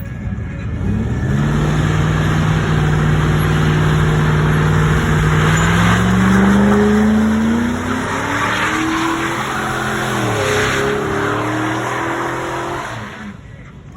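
Car engine revving hard: held at a steady high pitch, then climbing, with a short dip about ten seconds in before rising again and dropping away near the end. A loud rushing hiss runs over the engine the whole time.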